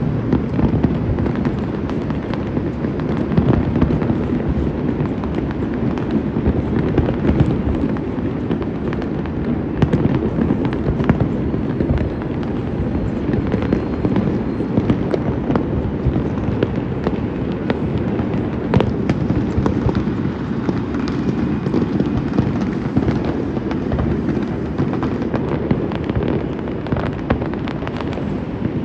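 Fireworks display going off continuously: a dense, rolling rumble of shell bursts with many sharp cracks and pops layered over it.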